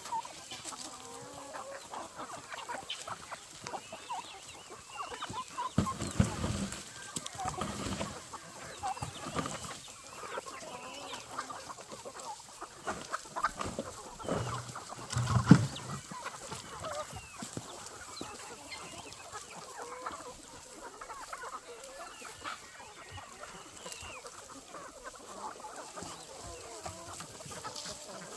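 Chickens clucking and calling throughout, many short overlapping calls. Louder dull knocks or scuffs stand out about six seconds in and again, loudest of all, about fifteen seconds in.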